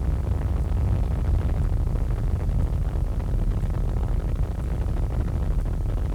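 Helicopter noise heard inside the cabin: a steady low rumble of engine and rotor.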